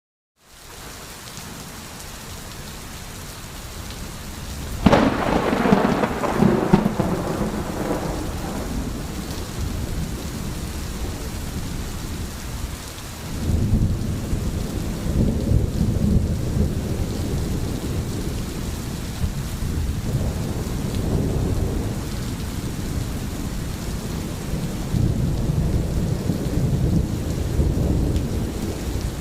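Rain falling with thunder: a sharp thunderclap about five seconds in, then deep rolling rumbles that swell up again several times.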